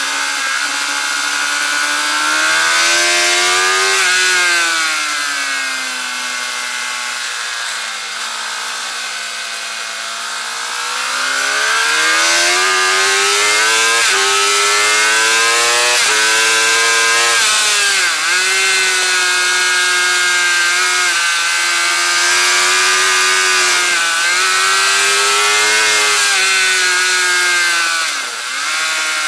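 Suzuki GSX-R 750 inline-four engine heard onboard at full race pace. It climbs in pitch under acceleration and falls away under braking, with short dips in pitch at gear changes about two-thirds of the way through and near the end. Wind rush on the bike-mounted microphone sits under it.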